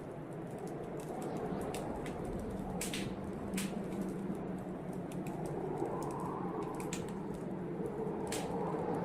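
Wood fire in a fireplace crackling, with irregular sharp snaps and pops, over a steady rushing blizzard wind that swells and eases.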